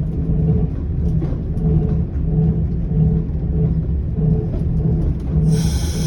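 Single-car diesel railcar running slowly on the line, a low throbbing rumble pulsing about one and a half to two times a second. A bright hiss cuts in abruptly near the end.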